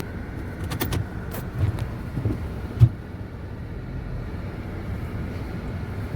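Pontiac Vibe driving through deep snow, heard from inside the cabin: a steady low engine and road rumble with a few short knocks, the loudest nearly three seconds in.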